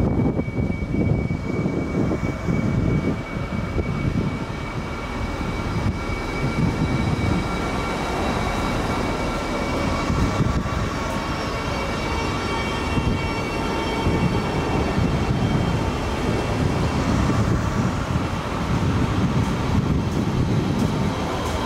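Double-deck coaches of a departing SNCB passenger train rolling past on the station tracks: a continuous rumble of wheels on rails with a steady high tone over it, and several higher tones coming in around the middle.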